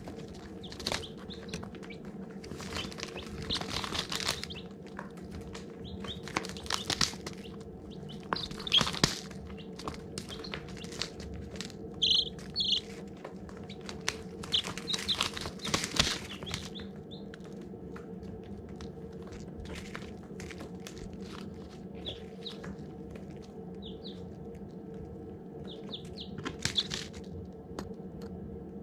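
Baby chicks peeping in short, scattered bursts, with brief rustles over a steady low hum.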